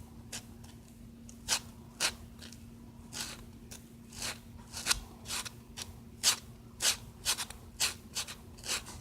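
Pink sponge nail buffer rubbing over an acrylic-patched thumbnail in short irregular strokes, each a brief scratchy swish, coming faster in the second half. A faint steady low hum runs underneath.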